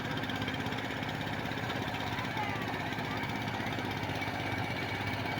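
Mahindra 495 turbo tractor's diesel engine running steadily.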